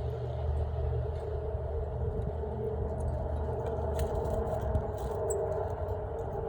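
A steady low mechanical rumble, like a motor or passing traffic, with a few faint clicks a little past halfway and a brief faint high chirp.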